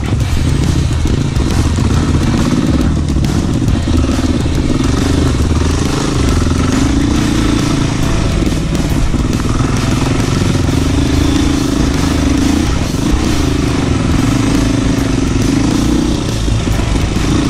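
Enduro motorcycle engine running continuously while being ridden, its pitch rising and falling as the throttle is worked.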